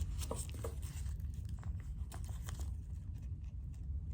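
Faint scattered clicks and light rustles from handling a small eating utensil and the jelly's wrapping, most of them in the first second, over a steady low hum.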